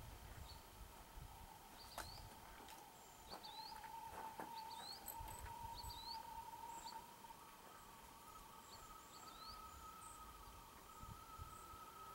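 Faint outdoor quiet with a bird giving short, rising chirps every second or so, over a faint steady tone.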